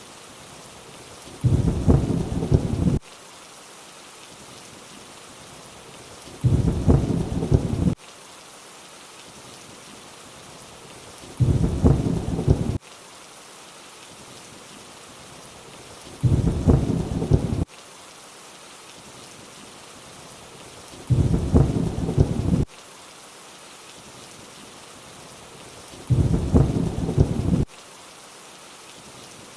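Steady rain hiss with a short low thunder rumble repeating about every five seconds, six times, each lasting about a second and a half and starting and stopping abruptly, like a looped thunder clip over the rain.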